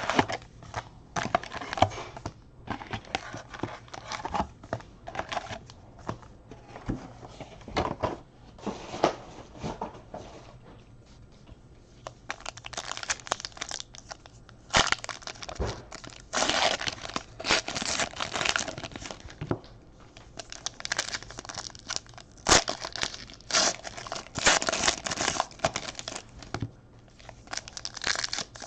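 Wrappers of baseball card packs crinkling and tearing as the packs are ripped open, with scattered clicks and rustling of cards. The ripping gets louder and busier about halfway through.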